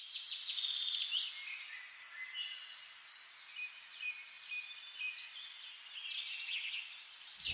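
Several songbirds singing and calling, with rapid high trills and chirps overlapping over a faint steady hiss, the busiest in the first second or so.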